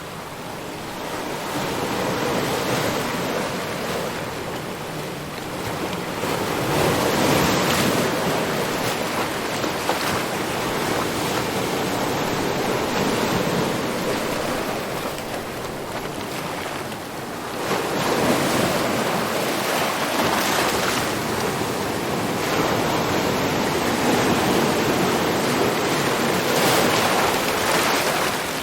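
Ocean surf: waves breaking and washing in one after another, with a continuous rushing noise that swells as a wave breaks, about 7 seconds in and again about 18 seconds in.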